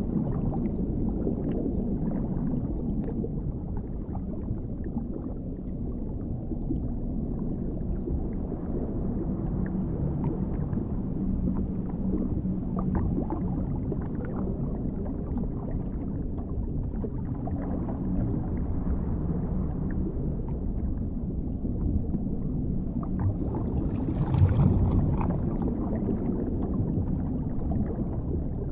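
Dark underwater ambience: a deep, muffled rumble with faint scattered bubbling clicks and a faint low hum, swelling briefly louder near the end.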